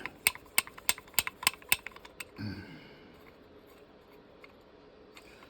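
Rapid run of about a dozen sharp clicks, roughly six a second, over the first two seconds as hard parts are worked against a fitting that won't go any further. Then it goes quiet.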